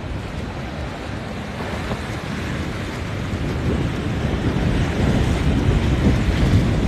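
Wind buffeting the microphone over the wash of waves at the inlet, a low rumbling noise that grows steadily louder toward the end.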